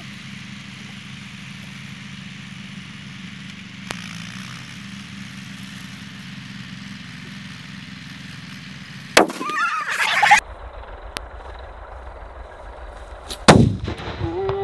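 Two loud firecracker bangs about four seconds apart, the first followed by about a second of crackling noise.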